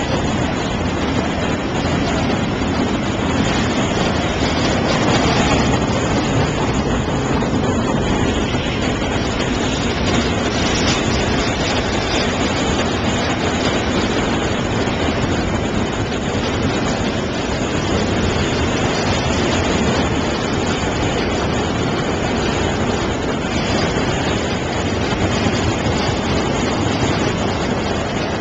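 Union Pacific freight train of empty intermodal well cars rolling past, a steady rumble and rush of wheels on rail that holds at an even level.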